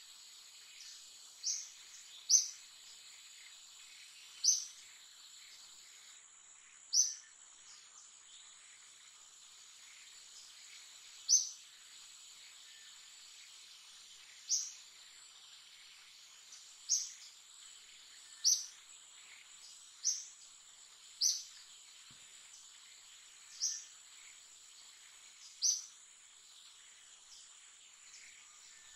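A bird repeating a short, high, falling call about a dozen times, one to four seconds apart, over a steady high-pitched drone of insects.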